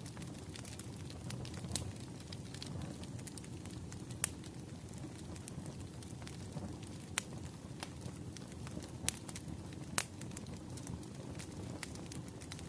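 Burning firewood crackling: a steady low rumble of flames with irregular sharp pops and snaps, a few of them louder.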